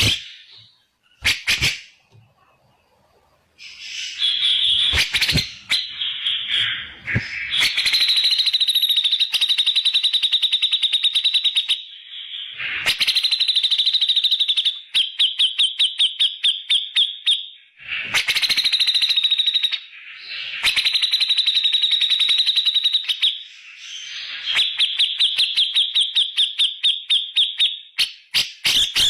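Grey-cheeked bulbul (cucak jenggot) singing its loud 'tembakan' bursts: long runs of very fast, clipped notes at one steady high pitch, in bouts of several seconds with short pauses between.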